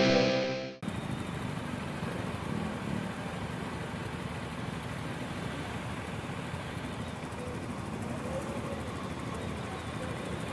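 Distorted electric-guitar music cutting off abruptly under a second in, followed by a motorcycle engine running steadily.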